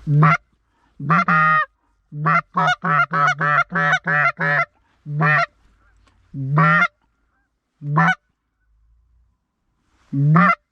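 Loud Canada goose honks: a couple of single honks, then a fast run of about eight clipped honks in two seconds, then four more spaced out.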